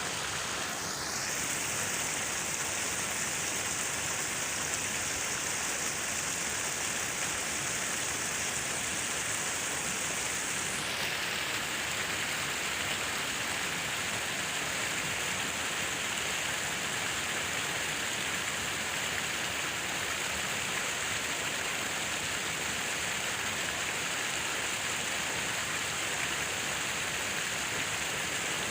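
Falling water making a steady, even hiss without breaks.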